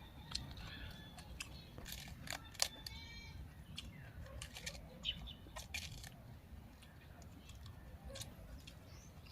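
Birds chirping in quick high runs of notes, with scattered sharp crunches from someone chewing raw vegetables; the loudest crunch comes about two and a half seconds in.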